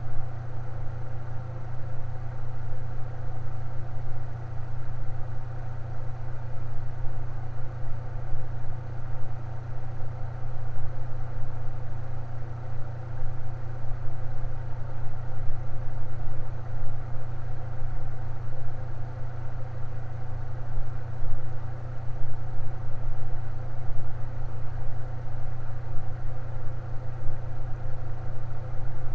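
Electric fan running steadily, with a strong low motor hum under an even whir of moving air.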